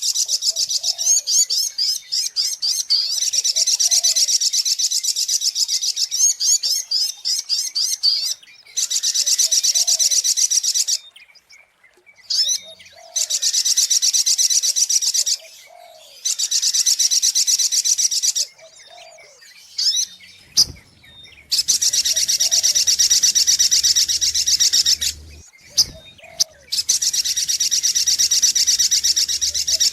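Crimson sunbird (sogok ontong) song, as used in a lure recording: long, very rapid, high twittering trills in bursts of two to four seconds, separated by short breaks. A faint low call repeats about every two seconds underneath.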